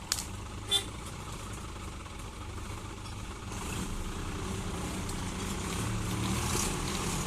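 Diesel vehicle engine running at low revs, getting gradually louder over the second half, with two short sharp clicks about a second in.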